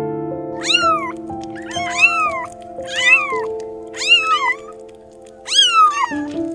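Kittens meowing: a series of short, high calls, each rising then falling in pitch, about one a second, over soft piano music.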